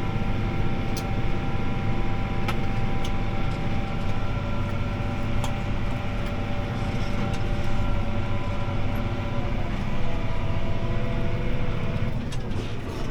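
CLAAS ARION 650 tractor's diesel engine running steadily under load, heard from inside the cab while pulling a disc harrow, with a few sharp clicks and rattles. Near the end the engine note drops slightly.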